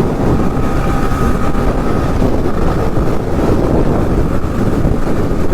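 Wind rushing over the microphone of a moving motorcycle, mixed with its engine and road noise, loud and steady.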